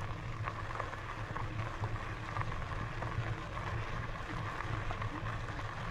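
Steady riding noise from an electric mountain bike rolling along a gravel trail: tyres crunching over grit with scattered faint ticks over a constant low hum.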